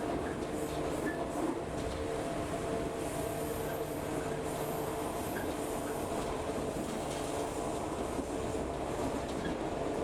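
Local electric train running along the line, heard from inside the passenger car: a steady rumble of wheels on track with an even hum.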